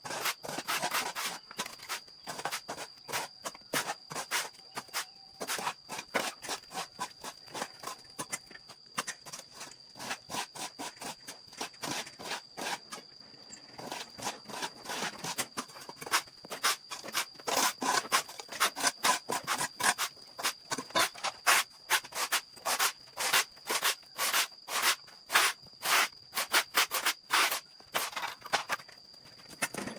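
Brisk strokes of a stiff brush or broom rubbing over a hard surface, several strokes a second, slackening briefly around the middle, over a steady high-pitched tone.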